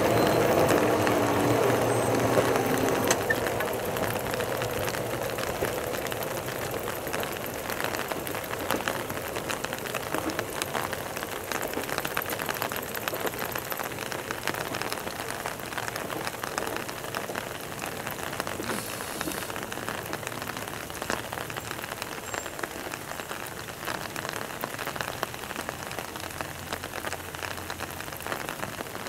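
Steady rain falling, with a patter of close raindrops. In the first few seconds an Ohmi Railway 300 series electric train's running hum fades away as it pulls out.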